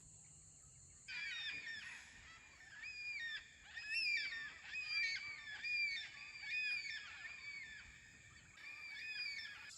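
A flock of black cockatoos calling, many drawn-out rising-and-falling calls overlapping from about a second in. Black cockatoos calling in such numbers are a sign that a rainstorm is coming. A steady high insect buzz runs underneath.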